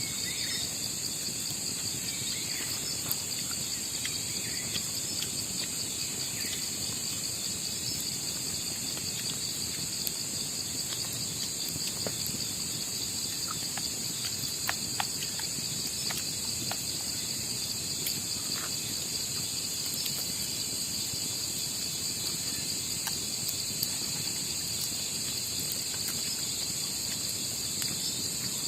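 Steady chorus of night insects, crickets among them, shrilling in two unbroken high-pitched bands. Scattered faint ticks and clicks sound over it.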